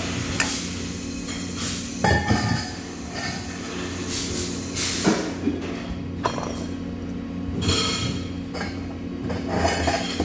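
Metal workshop noise: a steady machine hum with scattered metal clinks and knocks, and short bursts of hiss.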